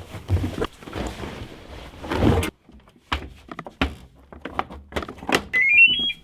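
A steady hiss, then a near-quiet gap and a series of knocks and clicks, then a short run of electronic beeps stepping up in pitch near the end.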